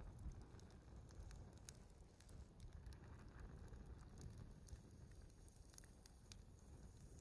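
Wood fire burning faintly, with scattered sharp crackles and pops over a low hiss.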